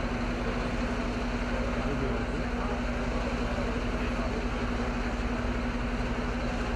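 Steady vehicle engine noise with a constant low hum.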